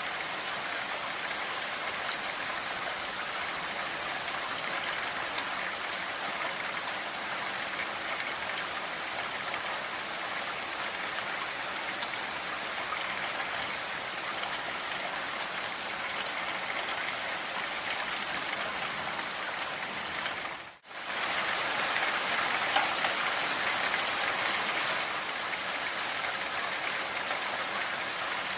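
Steady rain falling, an even hiss of drops. It cuts out for a split second about two-thirds of the way through, then resumes slightly louder.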